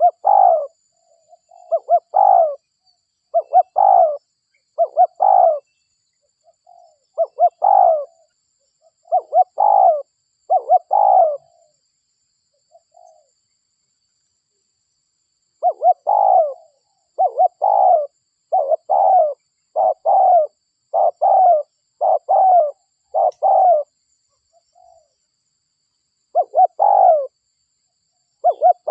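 Spotted dove (derkuku) cooing: a long run of short, repeated coos about one a second, breaking off for a few seconds midway before starting again.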